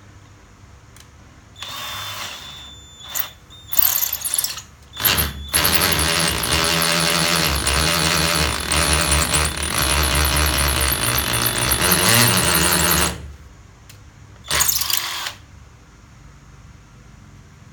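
DeWALT DCD700 36 V cordless drill in hammer-drill mode, run against a concrete block: a few short bursts, then a long run of about seven seconds, then one more short burst. A wood bit is fitted, so it is not biting into the concrete.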